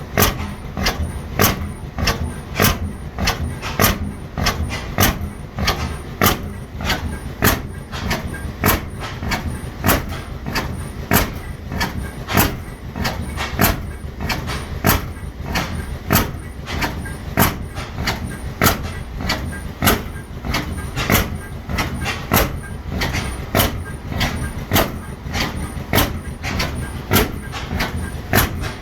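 Ajax-Ball half-breed oilfield hit-and-miss engine running at a slow, even beat, with a sharp exhaust bang about every 0.7 seconds and fainter clicks between, over a steady low rumble.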